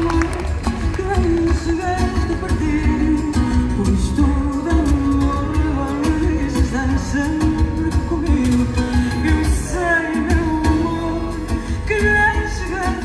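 Live fado music: a woman singing over guitars and a steady rhythmic beat.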